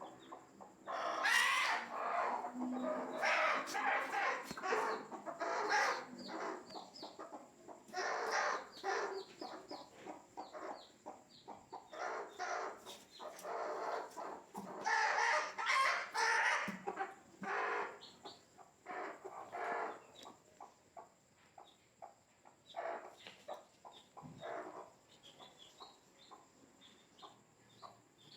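Broody hens squawking and clucking in repeated agitated bursts, with short high peeps, likely from chicks, between them. The bursts die down over the last few seconds.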